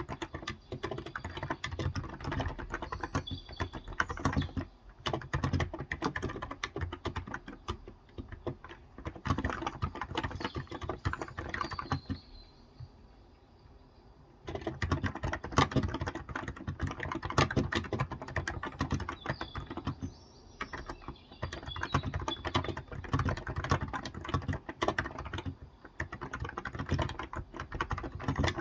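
Typing on a Cox Endeavour tenkeyless keyboard with 35 g electro-capacitive switches: fast runs of soft keystrokes, with a break of about two seconds in the middle. Faint bird chirps can be heard behind the typing now and then.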